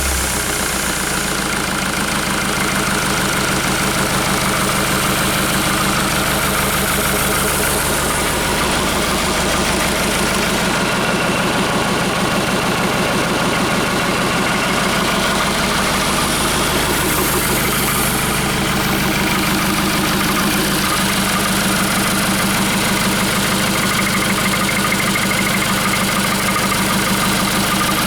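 Hyundai/Kia D4CB 2.5-litre four-cylinder common-rail diesel engine idling steadily just after starting.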